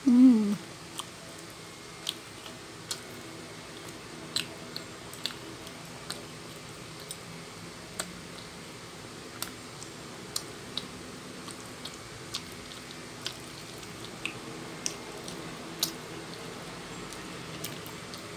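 Close-up chewing of soft noodles, with wet mouth clicks and smacks one or two a second. A short falling vocal sound comes right at the start and is the loudest moment.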